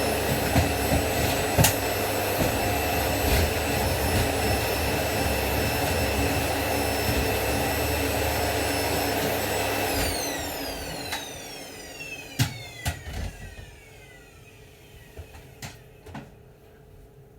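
Vacuum cleaner running steadily with a high whine, switched off about ten seconds in; its motor whine falls in pitch as it spins down. A few light clicks and knocks follow.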